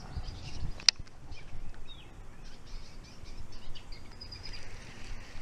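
Birds chirping in short scattered calls over a low rumble on the microphone, with one sharp click about a second in.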